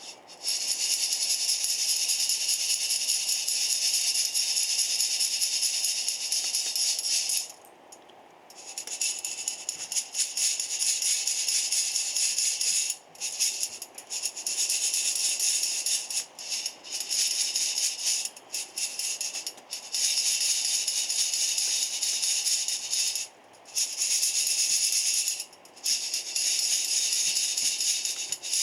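Coffee beans rattling as they are shaken in a metal container, in long bouts broken by short pauses.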